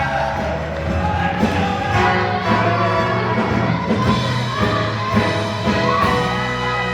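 A show choir singing with band accompaniment, with audience noise under it.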